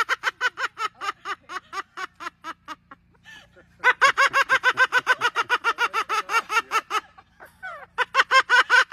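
Parrot calling in rapid, evenly repeated notes, about six a second, breaking off about three seconds in and again about seven seconds in before starting up once more; the calling of an excited parrot.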